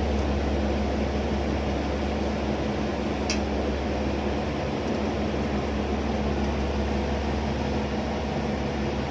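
Steady low drone of a ship's running machinery, an even hum with a constant pitch, with one brief click about three seconds in.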